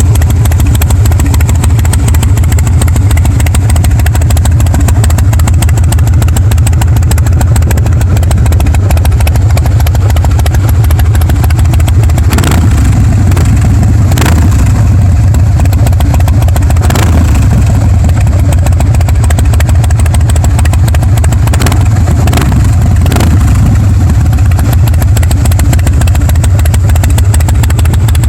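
Harley-Davidson Breakout's V-twin idling loudly through a Bassani Pro Street turnout exhaust, a steady deep rumble. A few brief sharp sounds break through around the middle.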